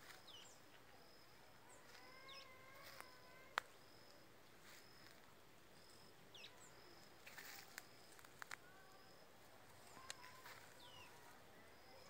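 Faint birdsong: short high chirps, several falling in pitch, and a thin high note repeating about once a second. A sharp click stands out about three and a half seconds in, and there are a few brief rustles near the eight-second mark.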